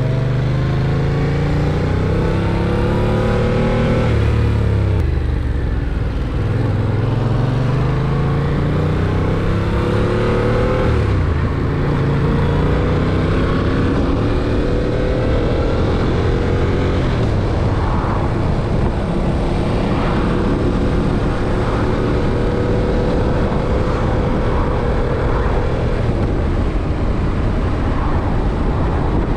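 Yamaha MT-07's 689 cc parallel-twin engine pulling through the gears: its pitch climbs, then drops back at an upshift, three times over the first half. Later it holds a steadier pitch at cruise.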